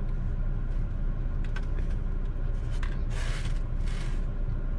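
Low steady rumble of a car idling, heard from inside the cabin, with a few light clicks and two short rustling noises about three and four seconds in.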